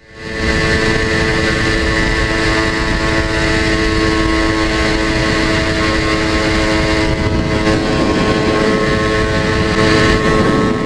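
A motorcycle engine running at a steady speed, its pitch holding constant throughout.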